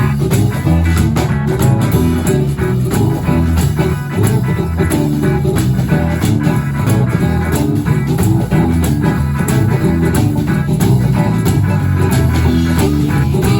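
Live blues band jamming: guitar over bass guitar, with a steady drum beat.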